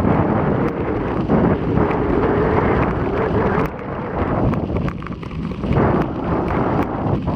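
Strong, gusty wind ahead of an approaching typhoon buffeting an action camera's microphone on a moving bicycle, easing briefly past the middle before picking up again.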